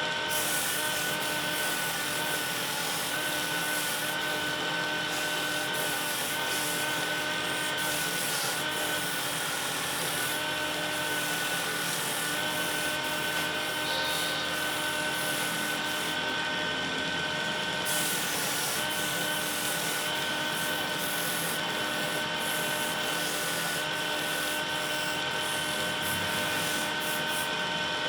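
Electric wood lathe running at a steady speed, its motor giving a constant whine over a steady noise.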